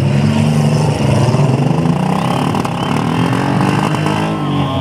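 Demolition derby car engines revving hard while the cars push against each other, the engine pitch rising and falling.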